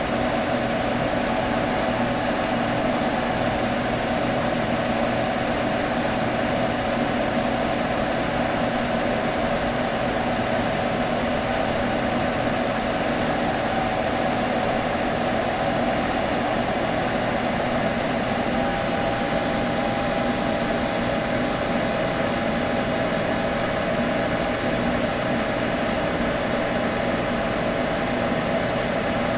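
Computer humming steadily: an even whirring drone with several held tones. A slightly higher tone joins about two-thirds of the way in.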